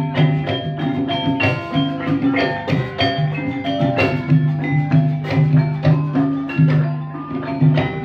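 Live ebeg dance music: mallet-struck percussion notes in a fast, dense pattern over drums and a steady bass line.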